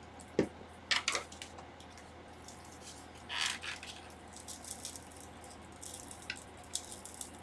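Hand tools clicking and tapping against the tablet: a few sharp clicks within the first second or so, a short scrape about three seconds in, then lighter ticks. These are the sounds of prying a swollen, glued-in battery out of the tablet.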